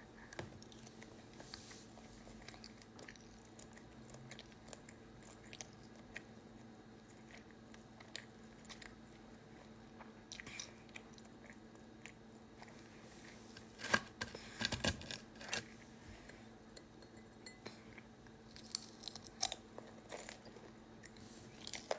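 A person chewing and crunching food close to the microphone: faint, scattered mouth clicks and crunches, with a louder cluster about two-thirds of the way through, over a steady low hum.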